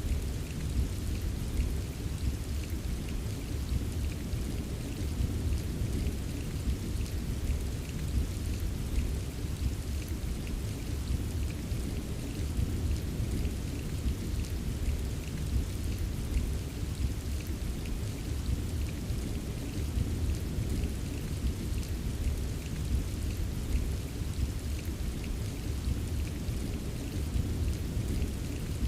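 Steady rain ambience: a dense, even patter of drops over a constant deep low rumble.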